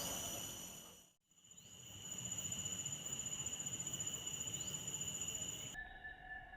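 Insect chorus, crickets among them, chirring in steady high tones with a quick pulsing. It drops out completely for about half a second about a second in, and near the end it gives way to a thinner set of lower tones.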